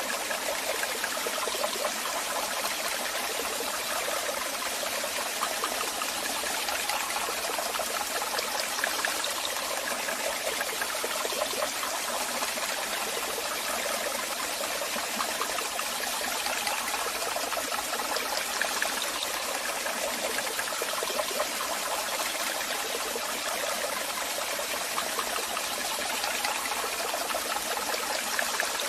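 Waterfall: water falling and splashing in a steady, unbroken rush with a fine splashing texture, no change in level throughout.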